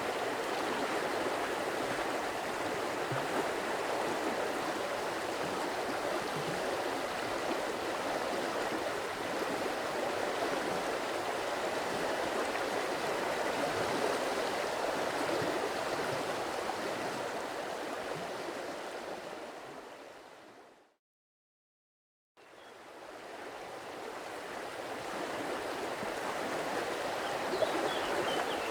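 Flowing stream water rushing steadily. About 20 seconds in it fades out to silence for a second or two, then fades back in.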